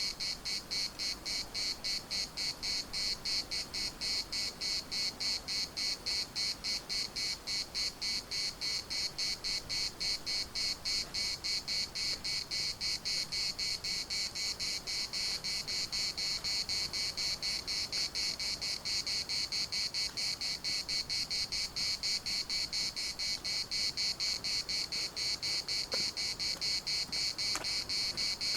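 Cicadas singing: a high, steady buzz that pulses about three times a second.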